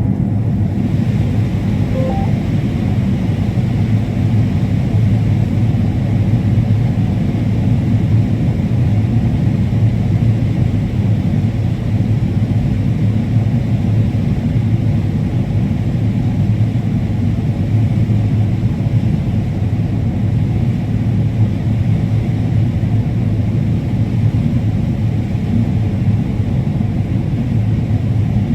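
Combine harvester running steadily while harvesting corn: an even, loud low rumble that does not change.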